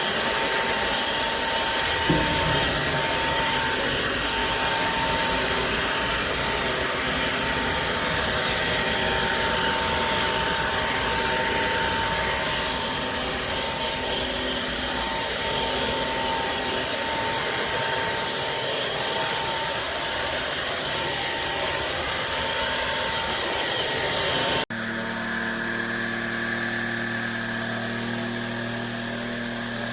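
Trucozie cordless stick vacuum running: a steady whine over rushing air, with a small knock about two seconds in. Near the end the sound cuts off abruptly and gives way to a quieter, lower hum.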